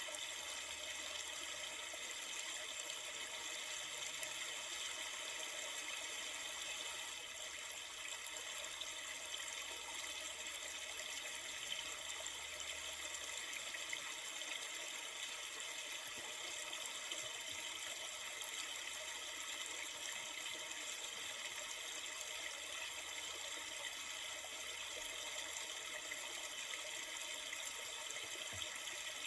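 Steady rushing and trickling of a flowing river, an even continuous water noise.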